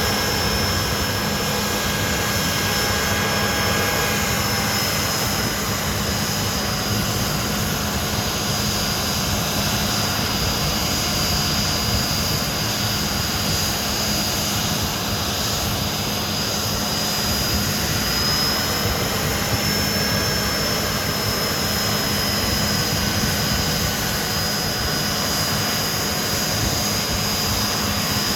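Hawker Siddeley Nimrod's Rolls-Royce Spey turbofan jet engines running steadily. A high, slightly wavering turbine whine sits over a constant rumble.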